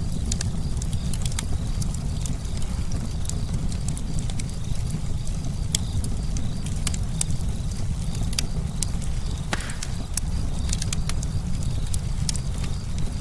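Campfire crackling: irregular sharp pops and snaps over a steady low rumble of the burning fire, with one louder snap about two-thirds of the way through.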